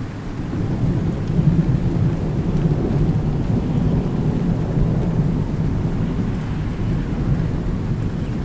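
Thunder rumbling deep and long over steady rain; the rumble swells in over the first second and rolls on through.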